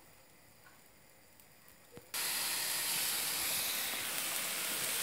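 Near silence for about two seconds, then turkey mince burgers frying in a pan, starting suddenly and sizzling steadily.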